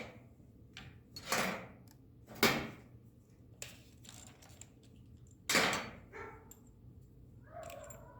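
Metal tools being handled: three short clattering rattles with small clicks between them, with no drill motor running.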